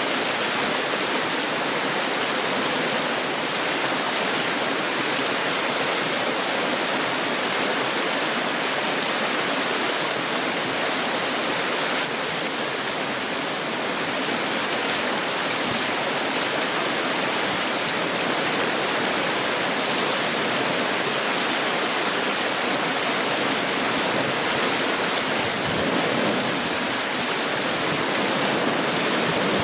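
Steady rush of a flowing river, an even hiss of moving water that holds the same level throughout.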